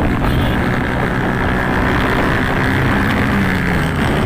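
Motorcycle engine running steadily at speed, a constant engine drone under a rushing wind-and-road noise.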